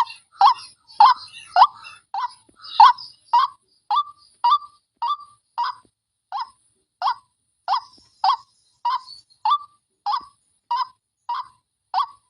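White-breasted waterhen calling: a long series of short 'wak' notes repeated about twice a second. The first three seconds are busier and more ragged, then the notes settle into an even rhythm.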